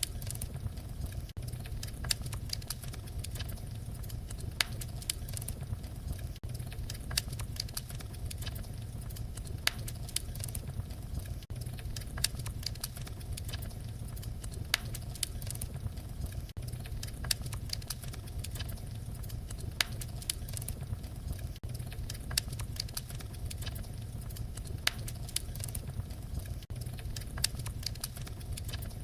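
Fireplace fire crackling: irregular sharp pops and snaps, a few every second, over a steady low rumble of the flames.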